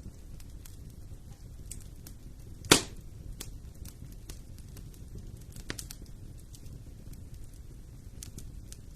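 Fire in a fireplace crackling, with a low steady rumble of flames under scattered small snaps. One loud sharp pop comes a little under three seconds in, and a smaller one comes past the middle.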